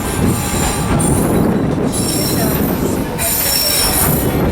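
Steel wheels of a 30-inch narrow-gauge railway car squealing on the rails over the steady rumble of the train running; the high squeal fades in and out several times.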